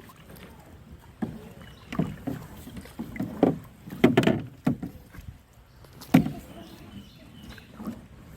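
Canoe paddles dipping and pulling through calm river water, a string of uneven strokes and splashes about a second apart.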